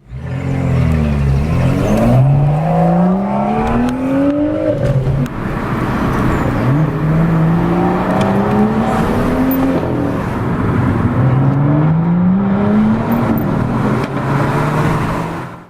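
BMW M2 F87's twin-turbo inline-six with an M Performance exhaust, accelerating hard. The engine note climbs steadily three times, each pull lasting about three seconds before dropping back.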